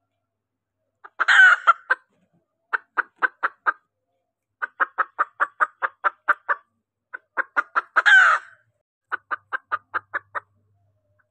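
Female junglefowl calls, the kind played as a lure to call in males. A loud harsh call about a second in is followed by runs of short quick clucks at about six a second, and then the pattern repeats, with a second loud call past the middle and another run of clucks.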